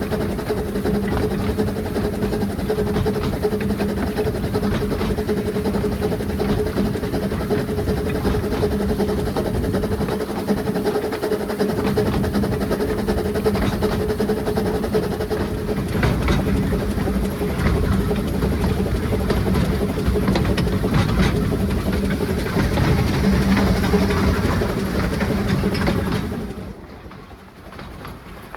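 A narrow-gauge steam train running along the track, heard from aboard: a steady rumble and hum with scattered clicks of the wheels over the rail joints. The sound suddenly falls quieter near the end.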